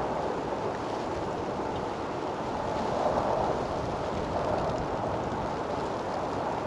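Snowstorm wind rushing steadily, swelling and easing.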